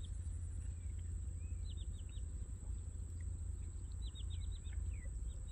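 Small birds chirping in quick runs of four or five high notes, about a second and a half in and again around four and five seconds in. Under them are a steady low rumble and a thin, steady high-pitched tone.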